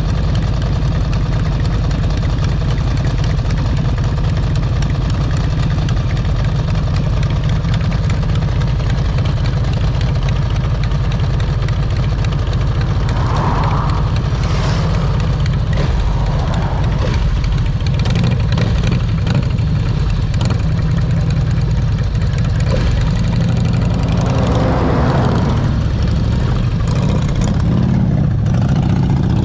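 Motorcycle riding along, its engine running steadily under heavy wind rumble on the microphone, with a couple of brief louder passing sounds midway and near the end.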